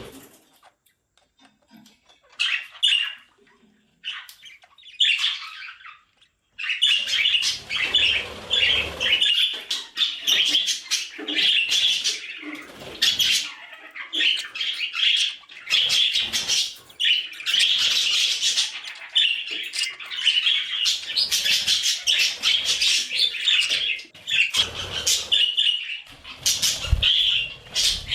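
Budgerigars chattering: a few scattered chirps at first, then from about six seconds in a continuous, rapid warbling chatter of short high chirps.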